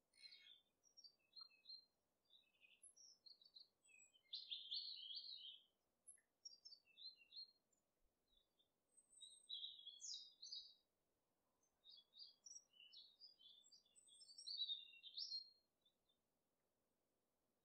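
Faint birdsong: small birds chirping and twittering in many short, high runs of notes, with a pause near the end, over a faint steady hiss.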